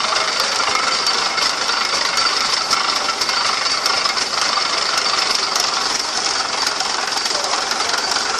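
Rumely steam traction engine running: a steady hiss with frequent small, irregular clicks and knocks.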